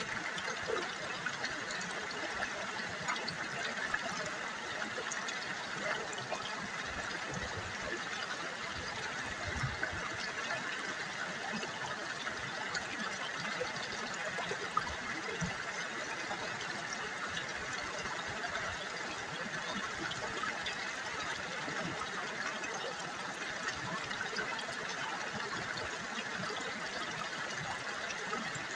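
River water babbling and trickling steadily over stones, a constant splashing rush.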